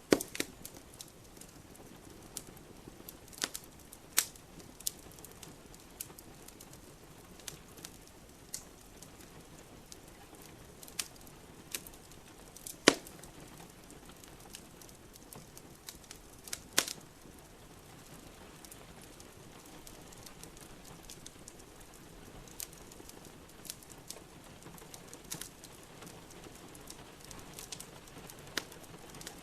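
Wood fire crackling in a fireplace, with irregular sharp pops, two of them louder near the middle, over a steady hiss of rain.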